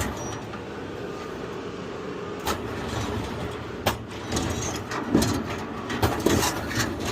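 A vehicle engine running steadily, with a few sharp metallic clanks spaced out over several seconds as scrap metal is unloaded.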